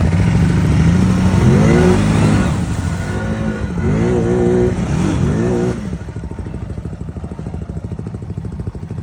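ATV engine revved up and down several times, then settling to a steady idle about six seconds in.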